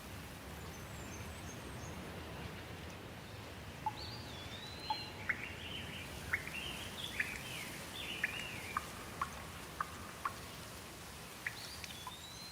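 Steady rain falling, with a bird calling over it: a run of sliding high notes and short sharp chirps from about four seconds in until near the end.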